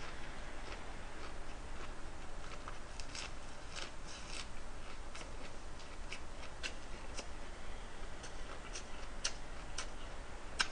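A person chewing a big mouthful of lettuce-wrapped grilled pork: quiet, scattered wet mouth clicks and crunches, a few each second, over a faint steady hiss.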